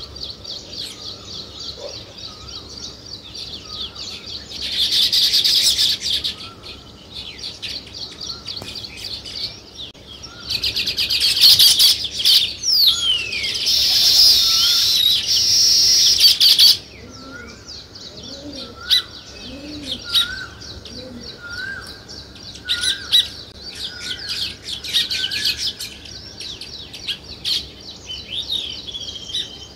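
A flock of sparrows chirping without a break, with loud bursts of dense chattering about five seconds in and again from about ten to seventeen seconds in. A short rising note repeats in the background about once a second.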